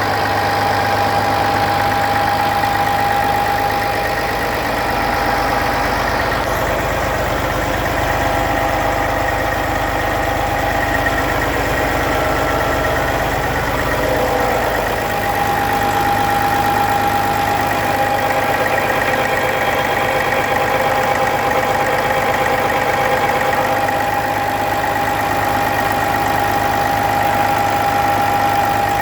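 Heavy diesel engine of a Western Star 4900SA hydrovac truck idling steadily, with a constant whine over the engine note.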